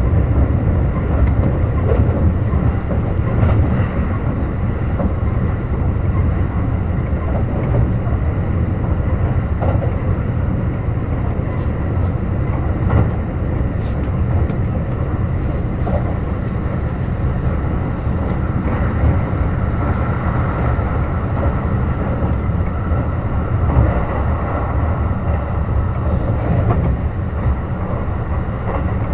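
Kintetsu 21000-series Urban Liner Plus electric limited express running at line speed: a steady, even rumble of the train's wheels on the rails, with no stops or sudden events.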